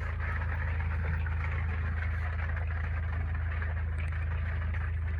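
Steady rain drumming on a trailer's roof, heard from inside, over a constant low hum.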